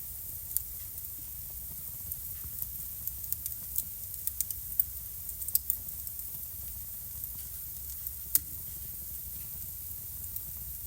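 Wood fire burning in a fireplace, crackling with irregular sharp pops over a steady low rumble. The pops come thickest in the middle, with one loud pop near the end.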